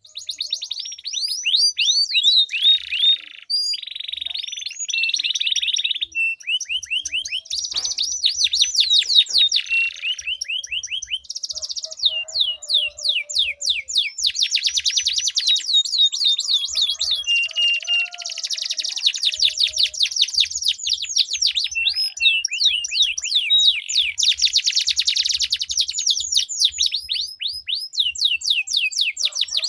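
Domestic canary singing long, rapid rolling trills: fast runs of high, down-sweeping notes that follow one another almost without a break.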